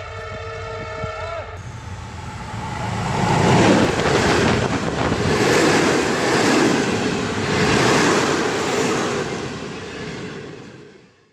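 A train sounds a steady horn for about the first second and a half, then passes close by: the rumble and clatter of its wheels on the rails build to a loud peak and fade away near the end.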